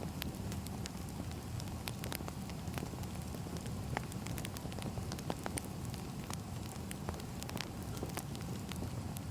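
Firewood burning: irregular sharp crackles and pops over a steady low rumble.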